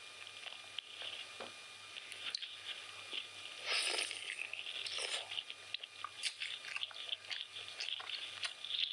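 Close-miked chewing and mouth sounds of someone eating chicken biryani: many small wet clicks and smacks, with a louder bite a little under four seconds in and another about a second later.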